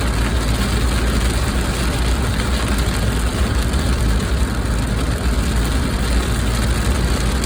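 Steady low rumble of a car on the move heard from inside the cabin, with an even hiss over it.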